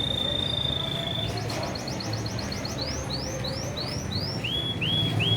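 Domestic canary singing: one long held whistle, then a fast trill of about eight notes a second, then a run of quick rising notes and a string of repeated down-slurred notes, over a low steady hum.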